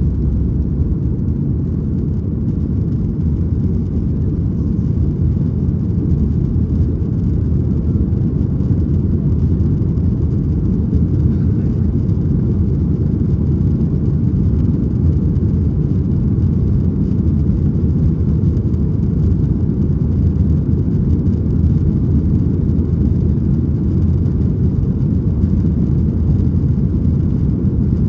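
Cabin noise of a Boeing 737-800 during takeoff: a loud, steady low rumble from its CFM56 turbofan engines and the air rushing past the fuselage, heard from inside the cabin.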